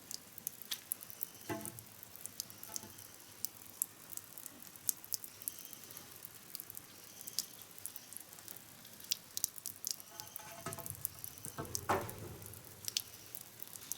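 Faint, irregular light clicks and crackles over a low hiss, with a couple of stronger knocks, one about a second and a half in and one near the end.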